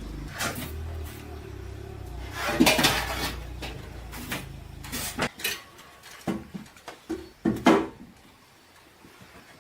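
A series of sharp knocks and clatters of hard objects being handled, over a low hum that cuts off about five seconds in.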